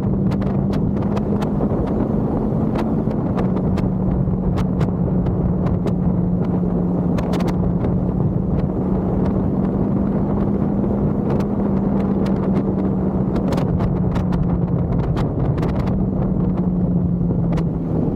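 Husqvarna Svartpilen 401 single-cylinder motorcycle engine running at a steady cruise, its pitch stepping slightly a few times, under heavy wind noise on the helmet-mounted microphone, with scattered light ticks.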